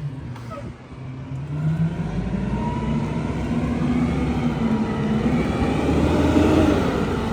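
A heavy truck's engine approaching and driving past, growing louder from about two seconds in, its pitch rising and falling as it accelerates.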